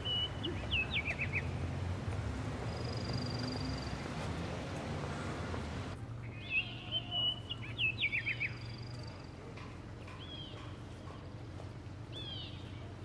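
Songbird chirping: a short phrase of quick descending notes near the start, a similar phrase about six and a half seconds in, and a few brief chirps after, over steady low background noise.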